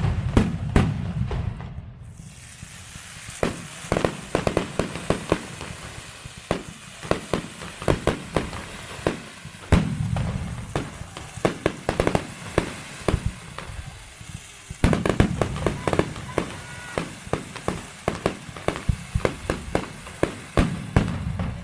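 Fireworks display: many sharp bangs and cracks from shells bursting in rapid, irregular succession, over continuous crackling, with a heavy volley about fifteen seconds in.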